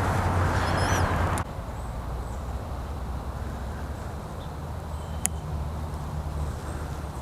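Distant road traffic giving a steady low rumble, with a few faint bird chirps. A louder rushing noise in the first second and a half cuts off suddenly, and a single sharp click comes about five seconds in.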